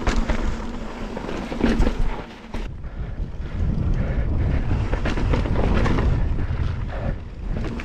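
Wind buffeting the microphone of a mountain bike rider's camera while riding over slickrock, with scattered clicks and rattles from the bike. The sound eases briefly between two and three seconds in.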